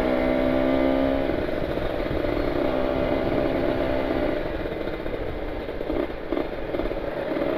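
Kawasaki Ninja 150 RR two-stroke single-cylinder engine running at a steady pitch while riding, under constant wind and road rush. In the second half the engine note fades and mostly the wind rush remains.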